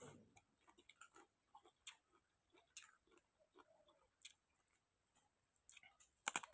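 Faint, close chewing: scattered small clicks and smacks of a mouth eating grilled field rat and spicy papaya salad, with one sharper crunch near the end.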